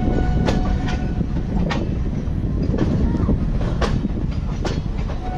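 Moving passenger train heard from its own open door: a continuous low rumble of wheels on track, broken by several sharp clacks as the wheels cross rail joints at uneven intervals.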